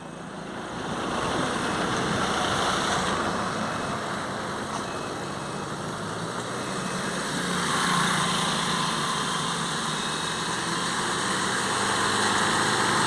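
Tata Manza car engine running after a carbon-cleaning (decarbonising) service, being revved lightly, its speed swelling about two seconds in and again around eight seconds in.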